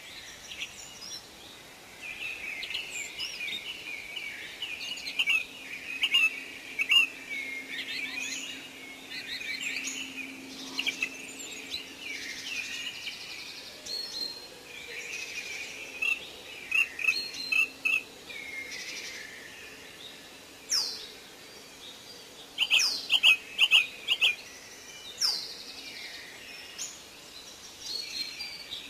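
Wild songbirds calling and singing: a busy run of chirps and short trills. After about twenty seconds come a few sharp falling whistles and a loud cluster of quick notes.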